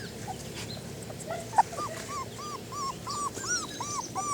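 Young puppies whimpering: a run of short, arching whines, about two a second, starting about a second in.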